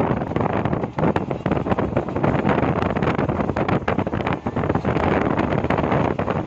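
Wind buffeting the microphone held out of the open door of a moving passenger train, over the train's steady running noise on the track.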